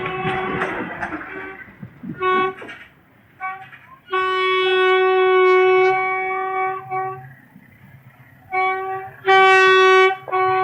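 Train horn sounding a series of blasts on one steady pitch: two short toots, a long blast of about three seconds, then three more blasts near the end. In the first two seconds a noisy rush of a passing train fades out.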